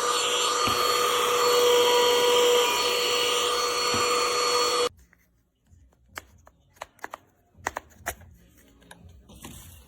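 BISSELL AeroSlim cordless handheld vacuum running with a steady whine, then switched off suddenly about halfway through. A few faint clicks and knocks of handling follow.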